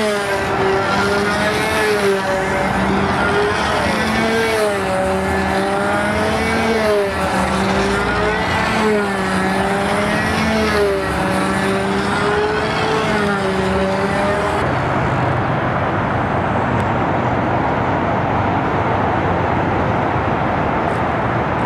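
Small glow-fuel model airplane engine running at full throttle on a control line plane circling the pilot, its pitch rising and falling once every lap, about every two seconds. About two-thirds of the way through the engine note stops suddenly, which marks the engine cutting out at the end of the flight, and only a steady noise is left.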